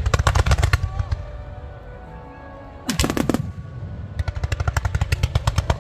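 Aerial fireworks going off: rapid strings of crackling pops with a low rumble underneath, a single louder bang about three seconds in, then another fast crackling volley near the end.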